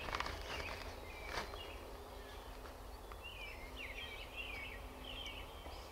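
Outdoor woodland ambience with a bird giving a run of short, quick chirps in the second half, after a few light clicks or rustles near the start.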